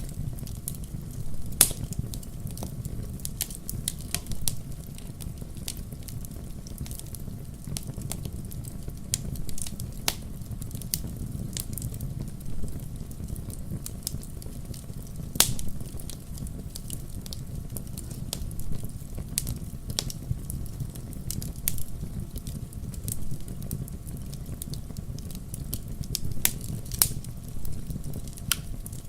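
Wood fire burning in a fireplace: a steady low rumble of the flames with scattered sharp crackles and pops, two louder pops about a second and a half in and near the middle.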